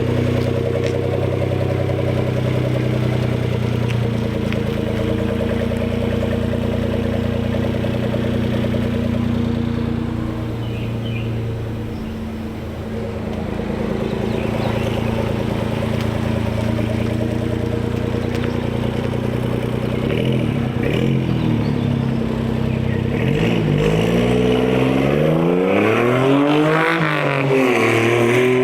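1999 Suzuki Carry kei truck's three-cylinder engine with a loud custom exhaust, running steadily while driving. It eases off briefly about twelve seconds in, then the pitch rises and falls several times under acceleration near the end.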